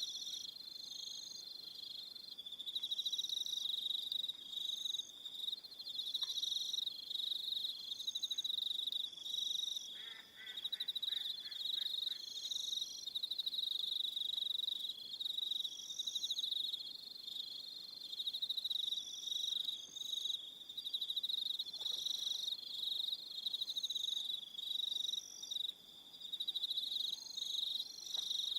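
A chorus of crickets chirping steadily in a high, pulsing trill, with fainter intermittent chirps higher still. A brief series of lower pulsed notes comes about ten seconds in.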